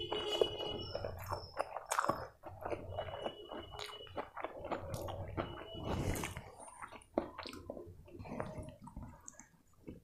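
Close-miked chewing and wet mouth sounds of a person eating chicken curry and rice, an irregular run of smacks and crackles. Fingers mash and mix curry-soaked rice on a steel plate near the start and again near the end.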